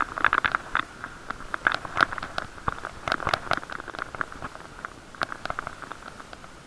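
Irregular clicking and rattling over a muffled hiss, as heard from inside an action camera's waterproof case on a moving bicycle; the clicks thin out towards the end.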